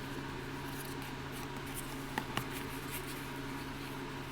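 Steady low hum of shop room tone, with two faint clicks about two seconds in.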